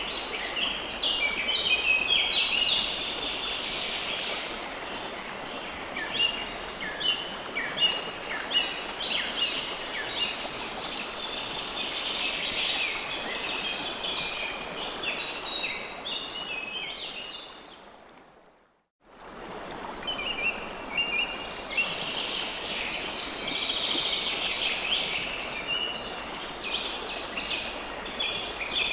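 A dense chorus of many small songbirds chirping over a steady rush of flowing stream water. The whole sound fades out to silence about two-thirds of the way through, then fades back in.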